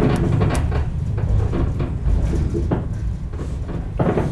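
115-series electric train running slowly over the rails with a low rumble, broken by sharp clicks and knocks; one knock is louder, near the end.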